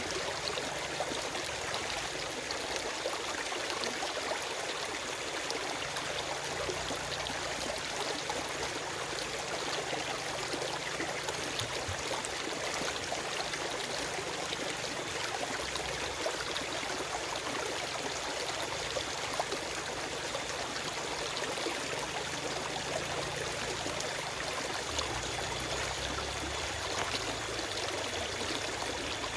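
Forest stream running over rocks: a steady rush of water with small splashes and trickles throughout.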